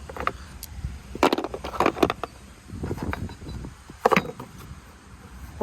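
Irregular clinks and knocks of hand tools on a riding mower's deck as its mounting bolts are loosened and removed: about half a dozen sharp strikes, the loudest about a second and a quarter in, around two seconds, and about four seconds in.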